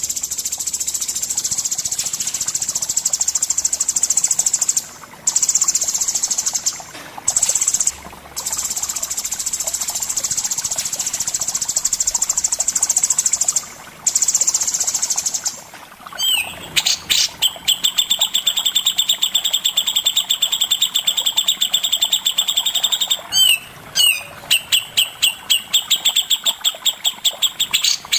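Songbird song from a masteran bird-tutoring recording: a long high, buzzy trill with a few brief breaks, then from a little over halfway a fast run of sharp repeated notes.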